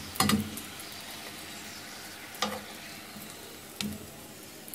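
Potato samosa rolls sizzling steadily in hot cooking oil at a medium flame, fried through and being lifted out. A metal utensil clicks against the pan three times.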